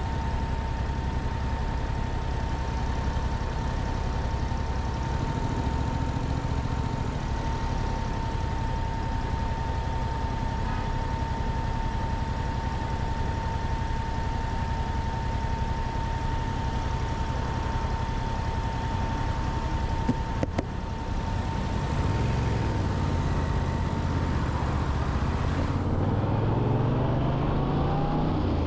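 Motorcycle engine running at low revs with road and wind noise and a faint steady whine. In the last few seconds the engine note dips and then climbs as the bike accelerates.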